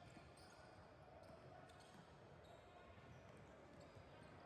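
Faint gymnasium sound of a basketball game: a ball bouncing on the court, with scattered short knocks and a low murmur of voices.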